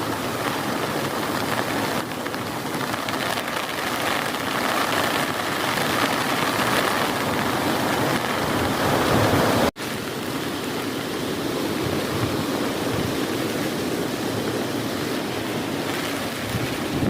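Heavy rain falling in a dense, steady hiss. About ten seconds in it cuts out for an instant and resumes a little quieter.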